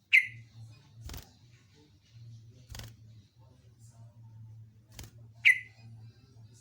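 Yellow-vented bulbul (trucuk) giving two short, sharp, loud calls, one right at the start and one about five and a half seconds in. A few soft clicks fall in between over a low steady hum.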